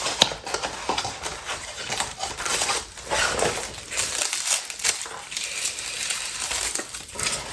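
Packaging being handled and unwrapped, an irregular crinkling and rustling with small clicks, as small cables are taken out of their packing.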